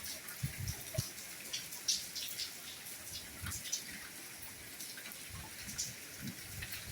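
Soft rainfall: a steady hiss of rain with scattered close drops ticking sharply and a few soft low thuds of heavier drops.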